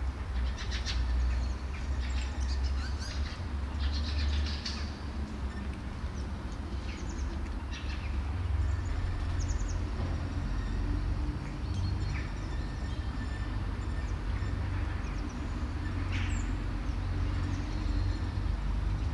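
A low steady rumble with scattered short, high chirps of small birds, most of them in the first five seconds and a few more later.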